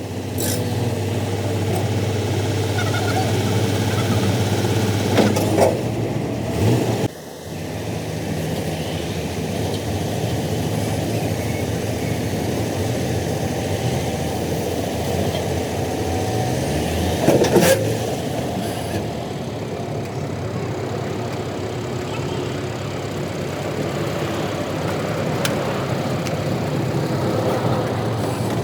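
Vehicle engines running with passing road traffic. Vehicles go by about five seconds in and again around seventeen seconds, and the sound breaks off briefly about seven seconds in.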